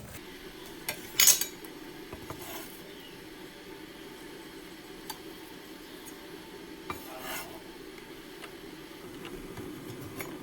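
Kitchen utensils clinking and scraping against dishes a few times, loudest about a second in, over a steady low hum.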